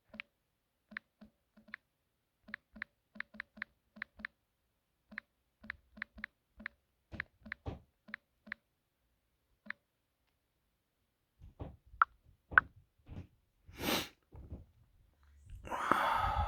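Irregular run of short, identical key-click sounds, a few per second, from typing on a keyboard. Near the end the clicks stop and a few louder knocks and a breathy rush of noise follow.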